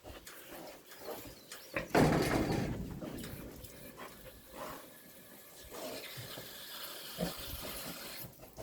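Pig grunting and snuffling at a push-lever nipple waterer, with a sudden spray of water from the nipple about two seconds in that fades away.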